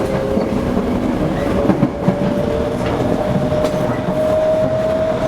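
Toei 5300-series commuter train heard from inside the car while running: the rumble of wheels on rail with a few clicks over rail joints, and a motor whine slowly rising in pitch as the train picks up speed.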